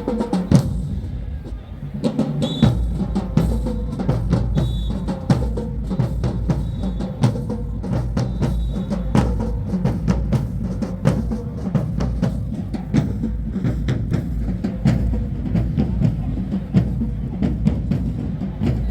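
Marching band drumline playing a steady cadence, with snare drums and bass drums hitting in a fast rhythm. It drops out briefly about a second and a half in, then picks up again.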